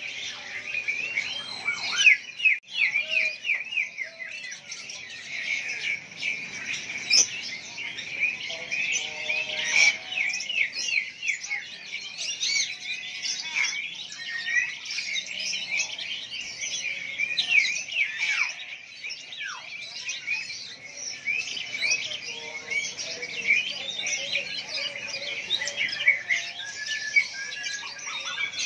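Many caged songbirds chirping and calling at once, a dense chorus of short, quick chirps and trills overlapping without a break.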